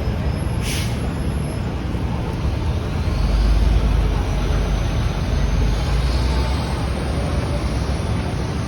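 City street traffic: a steady rumble of passing vehicles that swells about three seconds in, with a brief hiss near the start.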